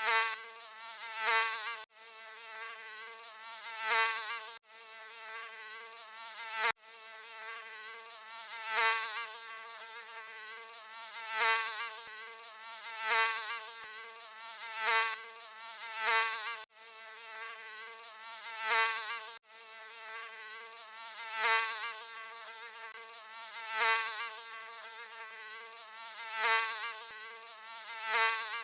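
Mosquito wings whining in a high, wavering buzz that swells louder and fades away about every two and a half seconds, like a mosquito flying past the ear. A few sudden breaks occur where the buzz cuts out and restarts at once.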